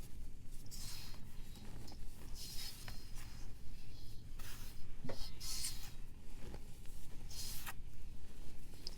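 Block of pressed powder being scraped or shaved in a stroke every second or two, each a dry hiss with small crackles.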